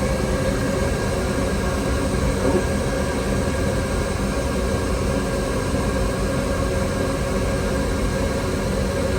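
Saw-sharpening workshop machinery running steadily, a continuous mechanical noise with a low hum and no separate strikes.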